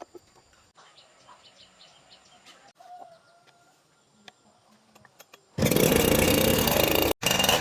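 Faint bird chirps over quiet rural background, then, about five and a half seconds in, a loud, steady machine noise starts abruptly: a Husqvarna 365's two-stroke chainsaw engine running at high revs. It cuts out for an instant near the end and starts again.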